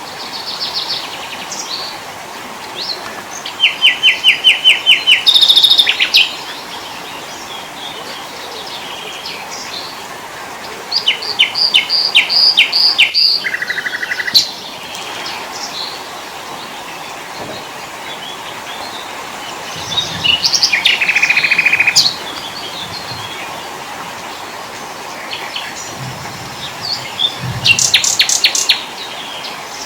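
Small forest songbirds singing: four loud bursts of rapid, repeated high chirps and trills, several seconds apart, over a steady background hiss.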